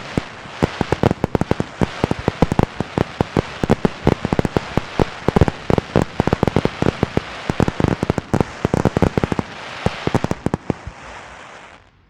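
Firecrackers going off in a rapid, dense string of sharp bangs over a crackling hiss, thinning out and stopping about eleven seconds in.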